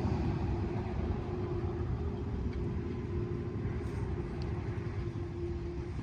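Low outdoor rumble with a steady droning tone that stops near the end.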